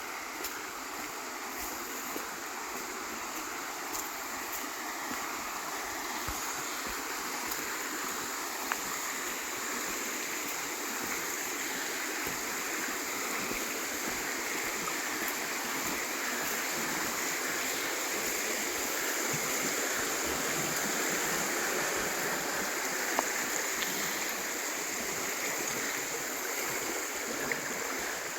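River water rushing steadily over its bed, a little louder through the middle.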